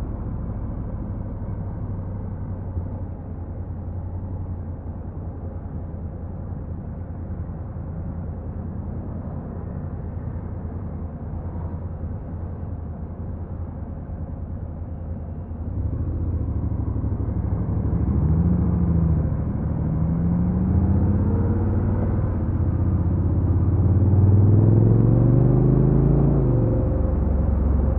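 Honda NC750X's parallel-twin engine heard from on board. It runs at a steady low note for about fifteen seconds, then the revs rise and fall several times as the bike accelerates and shifts through the gears.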